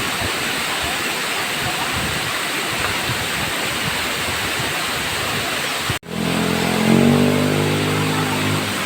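Waterfall rushing steadily. About six seconds in, the sound cuts out for an instant, then a vehicle engine hum joins the water noise, its pitch rising slightly and then holding.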